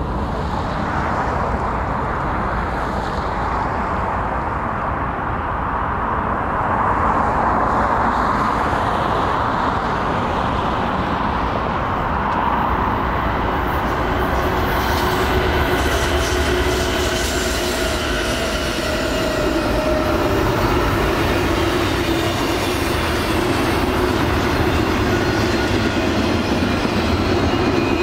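GE diesel locomotives of a BNSF double-stack intermodal train passing close by with a heavy engine rumble. The container well cars then roll past with steady wheel and rail noise and sustained squealing tones from the wheels.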